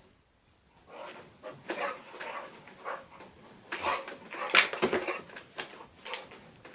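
Dog play-fighting with a cat: short whines and yips from the dog mixed with scuffling and knocks, loudest about four and a half seconds in.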